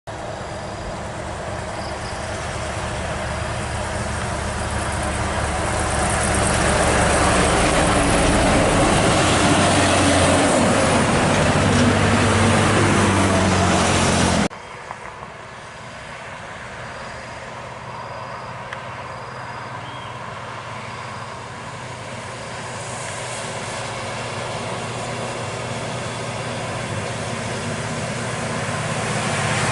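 A heavy vehicle's engine grows louder as it approaches and passes, its pitch rising and falling. The sound cuts off abruptly about halfway through. After the cut, a quieter engine grows steadily louder as another heavy vehicle approaches.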